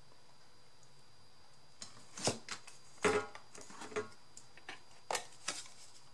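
Paper and craft materials being handled on a tabletop: a scattering of crinkling rustles and sharp clicks, beginning about two seconds in.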